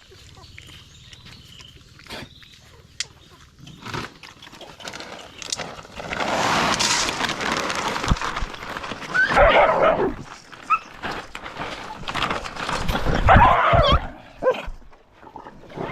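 A dog vocalising in loud, rough outbursts, starting about six seconds in and coming again near the end, with a few short knocks between.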